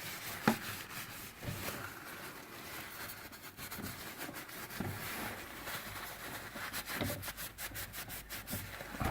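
A rag wiping and rubbing, cleaning spilled engine oil off the underside of the car, with one sharp click about half a second in and a run of quick scrubbing strokes near the end.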